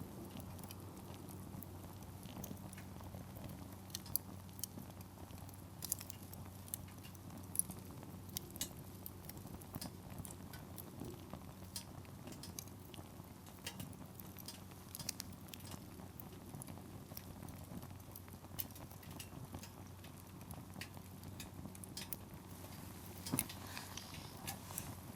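Wood campfire crackling: irregular sharp pops and snaps from the burning firewood, a few louder ones scattered through, over a soft steady background.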